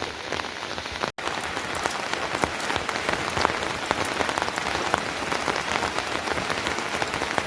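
Rain falling steadily, a dense patter of drops striking surfaces, with a momentary cut to silence about a second in.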